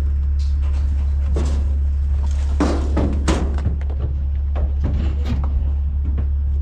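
Steady low drone of a running machine, with a string of knocks and thuds over it; the loudest come about three seconds in.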